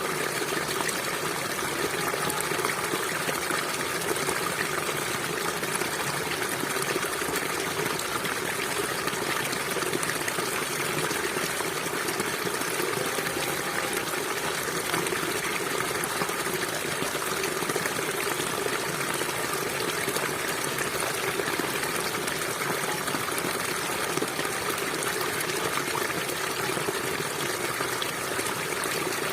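A gentle stream running steadily, a continuous gushing and trickling of water.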